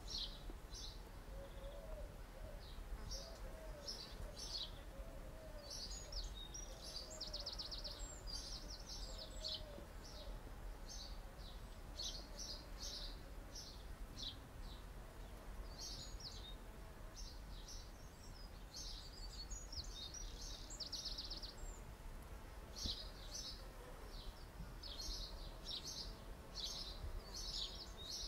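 Outdoor birdsong: several small birds chirping in short high phrases, some in quick trills, over a steady low rumble.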